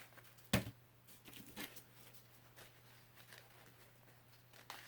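A single sharp knock about half a second in, followed by a few faint taps and small handling noises, as painting tools are handled on a work table.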